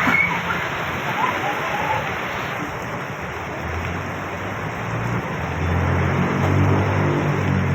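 Heavy rain falling steadily, a dense hiss throughout. From about halfway in, a vehicle's engine hum rises and swells as it approaches and passes.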